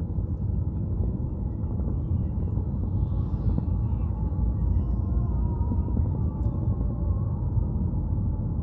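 Overloaded timber truck's engine running with a steady low rumble.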